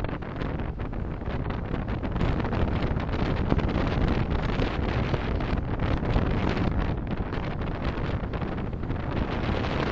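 Steady road and wind rumble of a moving car, picked up by a dashcam microphone.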